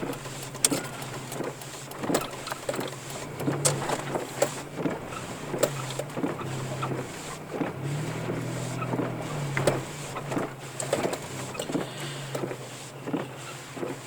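Car engine running low inside the cabin, swelling briefly about two thirds of the way through, with irregular knocks and clunks as the car creeps through deep snow.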